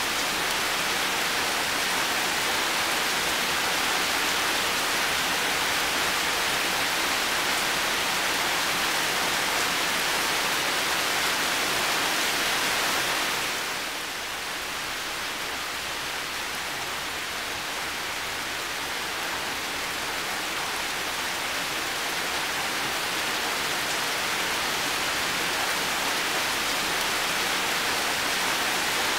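Heavy rain falling steadily, an even hiss. About halfway through it turns a little quieter and duller, then slowly builds back up.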